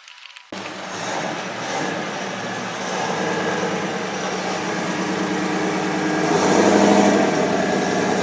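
A motor vehicle engine running loudly close by, starting abruptly about half a second in and swelling to its loudest around seven seconds in.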